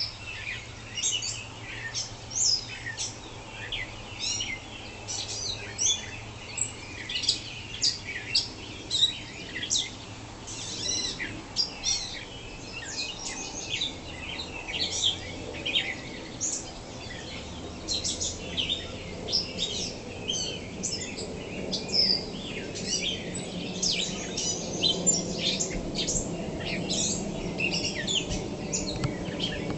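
A dawn chorus of several songbirds singing at once, a dense run of overlapping chirps, whistles and trills, over a low steady background hum.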